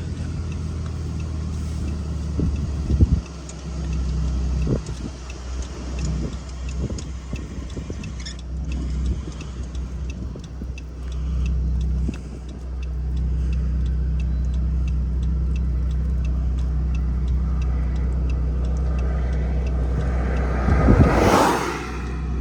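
Steady low rumble of a parked car idling, heard from inside the cabin, with a sharp thump about three seconds in as a door shuts. Near the end another vehicle passes close by with a rush that swells and fades.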